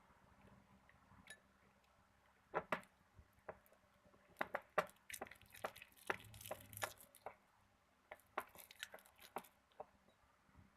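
Glue and borax slime being stirred in a bowl: irregular faint clicks, taps and sticky squelches of the stirrer against the bowl and the thickening mixture, busiest through the middle.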